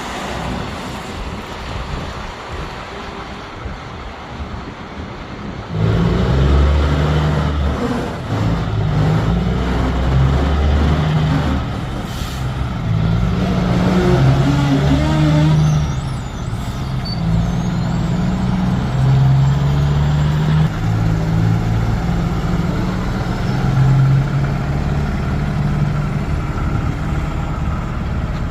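Heavy diesel semi-truck engine driving past, loud from about six seconds in, its pitch rising and dropping in steps as it pulls. Before that, a lower, steady traffic noise.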